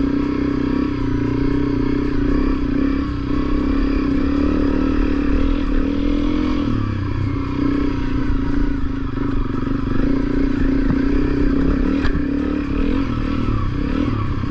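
Honda CRF250L's single-cylinder four-stroke engine running at low revs on a rough dirt trail. Its pitch wavers as the throttle is worked, dipping briefly about halfway through and then climbing back.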